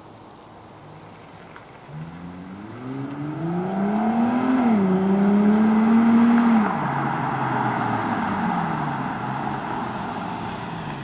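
Infiniti G35's 3.5-litre V6 exhaust as the car accelerates: the engine note climbs for about two seconds, dips briefly and holds, then drops a little past halfway and falls away as the revs come down.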